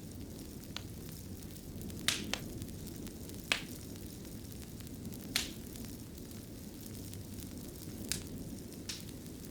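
Wood fire burning in a fireplace: a steady low rumble of flames with sharp, irregular crackles and pops, about seven of them.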